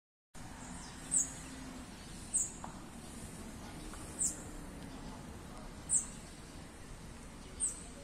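A small bird giving a single short, very high chirp that drops slightly in pitch, repeated five times at intervals of about one and a half to two seconds, over a steady low outdoor background hum.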